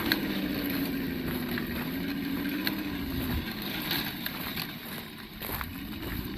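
Simulated engine sound from the sound module on an Absima Yucatan 1:8 RC crawler, its pitch wandering up and down with the throttle and dropping about five seconds in. A few sharp clicks sound over it.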